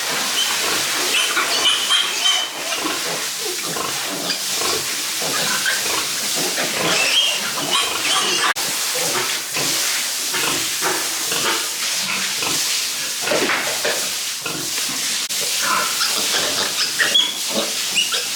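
Pigs grunting and squealing in irregular short calls over a steady hiss.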